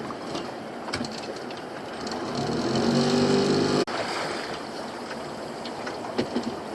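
Small fishing boat's engine running over water noise. It rises in pitch and gets louder as it revs up from about two seconds in, then cuts off abruptly just before four seconds in. There are a few light knocks.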